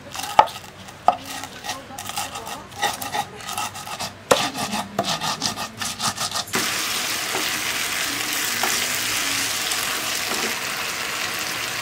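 Cooking in a frying pan: irregular clinks and scrapes of stirring for about the first half, then a sudden change to a steady sizzle of food frying in hot oil.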